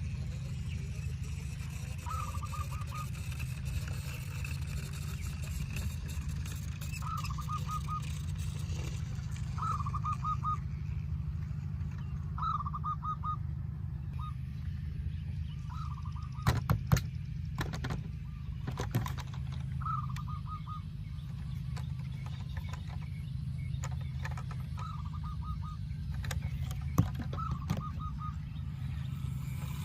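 Short honking calls, each a quick run of pulses, repeat every two to three seconds over a steady low hum. A few sharp knocks come about halfway through and again near the end.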